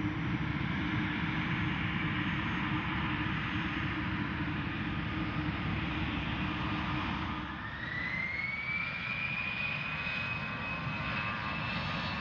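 Gulfstream G550 business jet's twin Rolls-Royce BR710 turbofans running as it departs: a steady jet roar, with a high turbine whine that rises about two-thirds of the way through and then holds steady.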